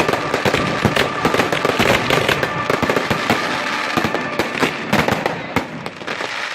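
Fireworks: a dense, rapid barrage of firecracker bangs and crackling, many reports a second, without a break.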